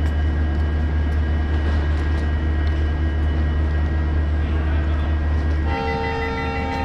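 A steady low engine drone from the halted diesel-hauled train. Near the end it changes to a steady electrical whine with several tones inside the coach's door vestibule.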